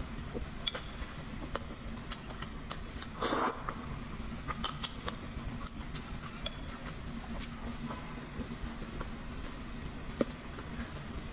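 Close-miked eating sounds: soft chewing and mouth clicks, with light chopstick taps, over a steady low hum. One louder, noisier sound comes about three seconds in.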